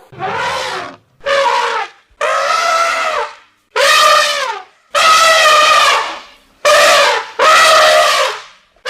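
An animal calling over and over: seven loud, wavering, pitched calls of about a second each, separated by short pauses.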